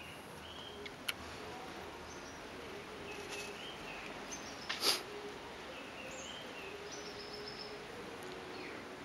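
Small birds chirping in short, scattered high notes over faint outdoor background noise, with a single click about a second in and a brief sharp hiss a little past the middle.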